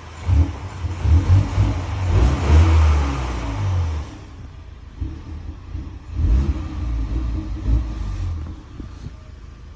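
2024 Mini Clubman's engine revved in two bursts, the first longer and louder, dropping back towards idle between and after them.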